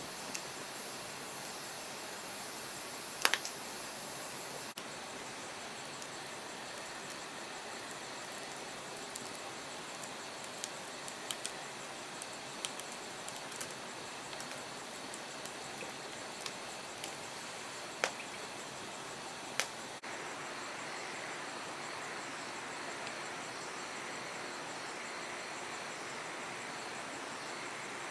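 Wood campfire crackling: a steady hiss with scattered sharp pops of burning firewood, one loud pop a few seconds in and two more past the middle.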